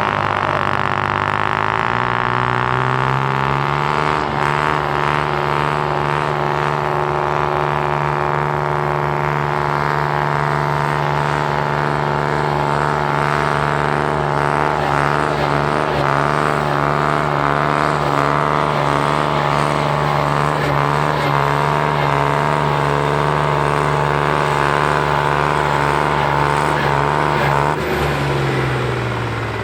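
Valmet 505 tractor's three-cylinder diesel engine at full throttle under heavy load, pulling the sled. The revs climb over the first few seconds, hold steady through the pull and fall away near the end.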